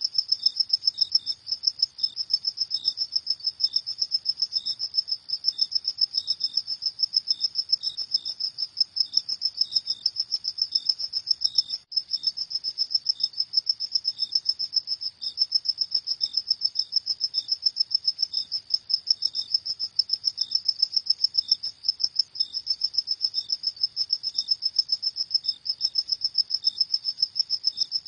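Crickets chirping at night: a continuous, rapidly pulsing high-pitched trill, with a second, slightly lower chirp repeating about twice a second. The sound cuts out for an instant about twelve seconds in.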